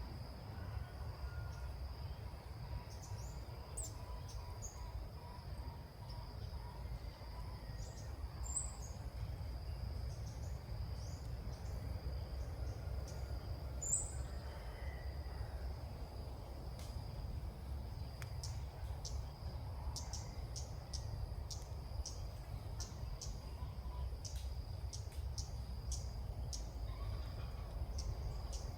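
Outdoor ambience with a steady high insect drone over a low rumble, a few short high bird chirps in the first half, and many short sharp ticks and chirps in the last ten seconds.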